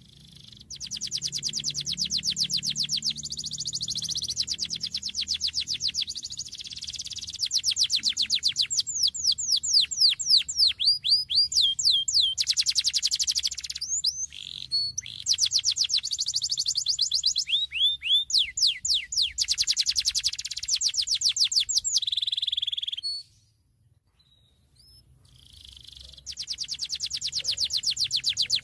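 Domestic canary singing a fast, continuous song of rapid trills and quickly repeated downward-sweeping notes. It breaks off for about two seconds near the end, then starts again.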